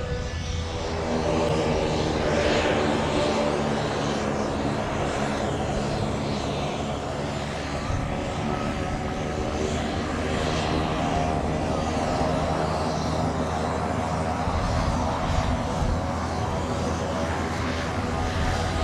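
MQ-9 Reaper's Honeywell TPE331 turboprop engine and pusher propeller running steadily. It is a droning, several-toned hum.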